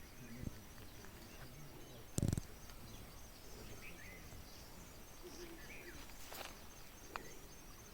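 Quiet rural ambience: insects trill faintly and steadily, with a few short bird chirps. A single thump sounds about two seconds in.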